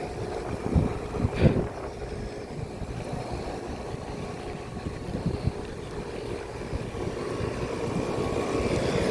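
Air-conditioning condenser units running in cooling mode: a steady fan and compressor hum that grows louder near the end. A couple of low thumps come about a second in.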